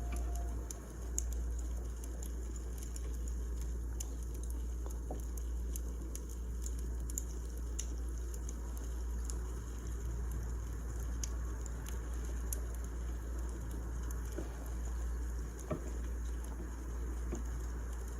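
Firewood burning with irregular small crackles and pops over a steady low rumble.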